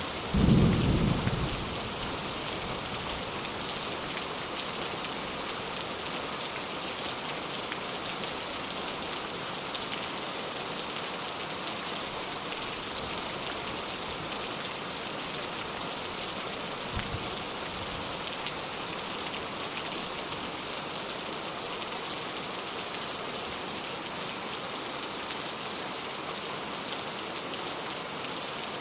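Steady rain falling, with a short, loud, low rumble of thunder about half a second in and a fainter low thud about two-thirds of the way through.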